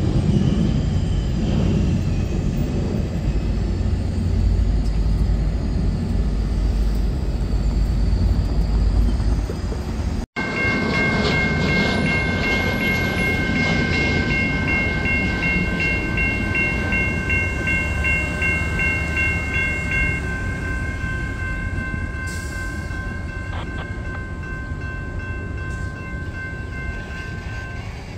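Tri-Rail push-pull commuter train pulling away from the platform, its diesel locomotive giving a deep steady rumble. After an abrupt cut about ten seconds in, grade-crossing warning bells ring steadily in several tones; one drops out about twenty seconds in and the ringing fades slightly toward the end.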